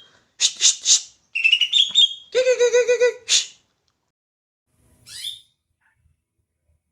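Greater green leafbird (cucak ijo) singing: a run of loud, rapid, chattering phrases in the first three and a half seconds, then one faint falling note about five seconds in.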